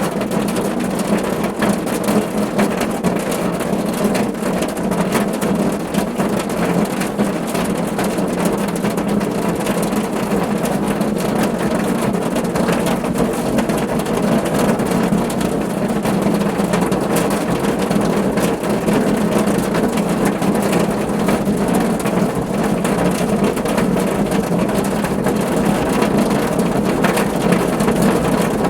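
Steady rain falling on a car roof: a dense, even patter of countless drops hitting the metal, with no let-up or change.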